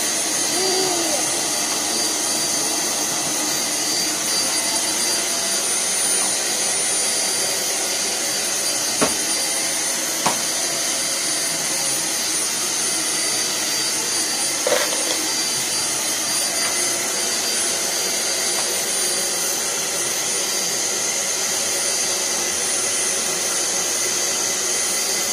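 Vacuum cleaner running steadily, with a high motor whine. A few sharp knocks come near the middle.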